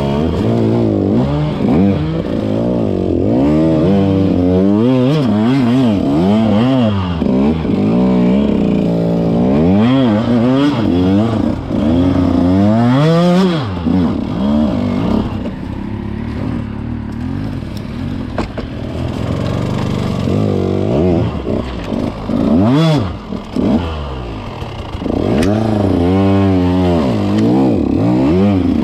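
Enduro dirt bike engine revving up and down over and over as it is ridden, the pitch climbing and falling every second or two. It settles to a lower, steadier run in the middle, dips briefly, then picks up again near the end.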